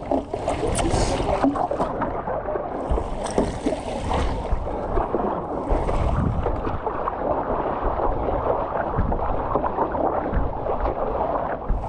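Wind buffeting the microphone over water sloshing and splashing around a stand-up paddleboard on the sea, a steady, uneven rush with a few brief splashes.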